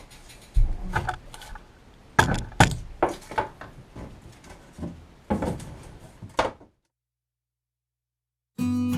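A string of separate knocks and thuds from things being handled, ending abruptly; after a short silence, acoustic guitar music starts near the end.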